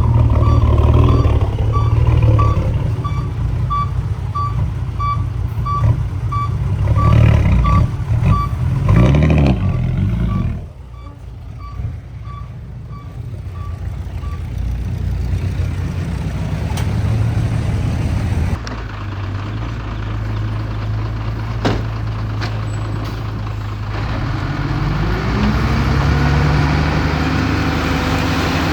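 Diesel heavy equipment running, with a reversing alarm beeping about twice a second over the engine until about halfway through, when the beeping stops. Near the end an engine revs up.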